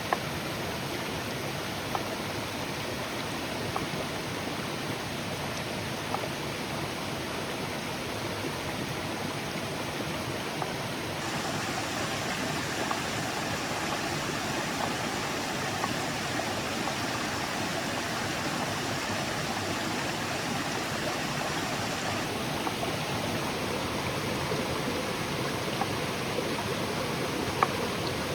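Steady rushing noise, getting slightly louder a little before halfway through, with a few sharp clicks scattered through it.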